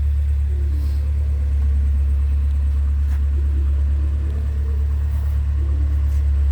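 A loud, steady low hum, unchanging throughout, with faint wavering sounds and a few light clicks over it.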